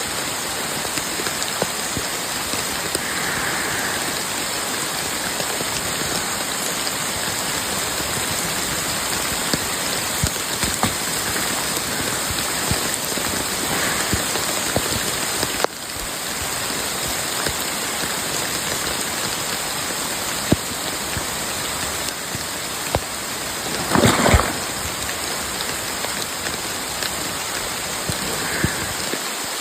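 Steady rain falling, an even hiss with scattered drops pattering close by. A brief louder noise stands out about three-quarters of the way through.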